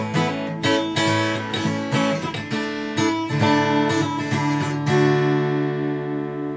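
Background music on acoustic guitar, strummed, settling about five seconds in on a final chord that rings and fades.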